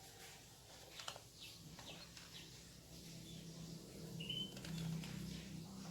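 Faint bird sounds: a few short high chirps, with a click about a second in and a low uneven hum growing louder over the second half.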